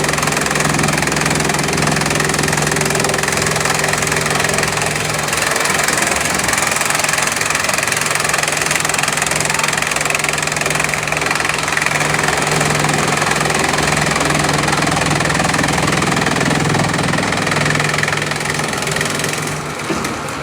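Bamboo chipping machinery running steadily: a loud, constant mechanical noise over a low hum, easing slightly just before the end.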